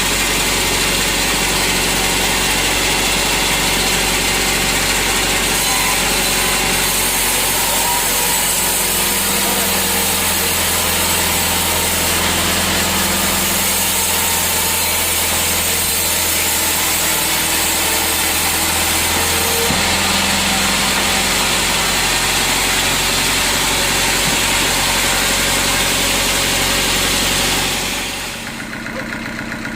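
Sawmill saw and its drive engine running steadily: a loud, dense hiss over a low engine hum. The noise drops off abruptly near the end.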